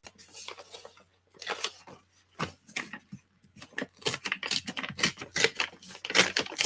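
A sheet of paper rustling and crinkling as it is folded and creased by hand, in a run of short, sharp strokes that grows busier about four seconds in.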